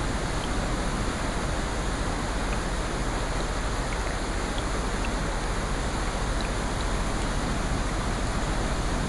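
Steady rain, an even rushing noise with faint scattered ticks of drops.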